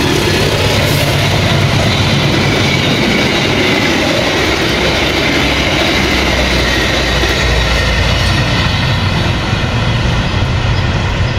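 Train passing close by at speed: a loud, steady rush of wheels on rail over a low rumble, with wheels clattering over rail joints and some faint high wheel squeal.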